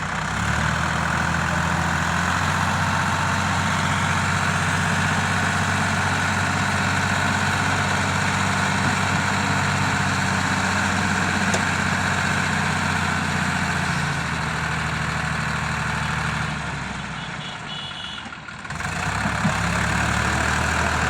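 Sonalika DI 750 tractor's diesel engine running steadily. Its note drops away briefly about seventeen seconds in and picks up again near nineteen seconds.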